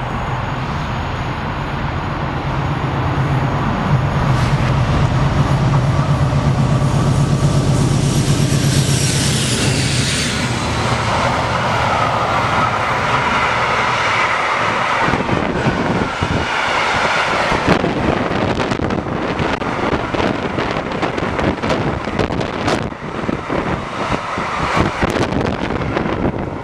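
Two Class 56 diesel locomotives, each with a Ruston-Paxman V16 engine, passing at speed: a deep engine drone builds over the first ten seconds, with a high whine that falls in pitch as they go by. Then a long train of empty timber wagons rumbles and rattles past, wheels clicking over the rail joints, the clatter thinning toward the end.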